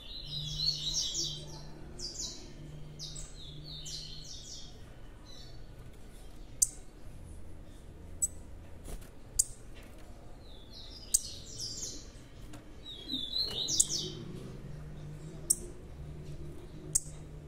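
Young blue-black grassquit (tiziu) giving rapid bursts of high chirps, near the start and again about thirteen seconds in. Single sharp clicks come every second or two in between.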